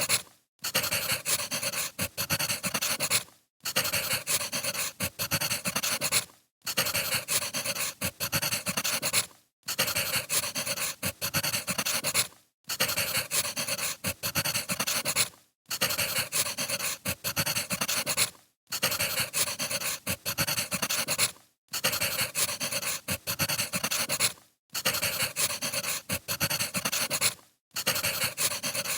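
Crackling wood fire, in stretches of about three seconds broken by brief gaps of silence.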